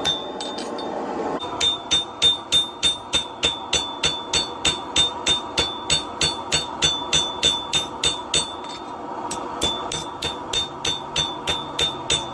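Hammer blows on hot steel over an anvil, about three a second, each with a bright metallic ring; they stop for about a second near the two-thirds mark, then carry on. The blows are knocking the corners in on a bar of 1-inch round stock to round it toward a disc.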